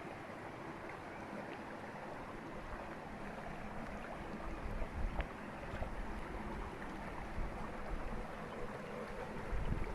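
River water flowing over rocks in a steady rush. A few low rumbles come in from about halfway through.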